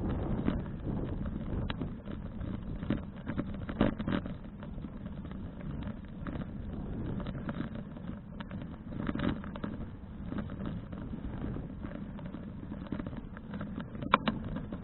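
Wind rushing over an action camera's microphone during a bicycle ride, a steady low rumble with scattered short clicks and rattles from the bike.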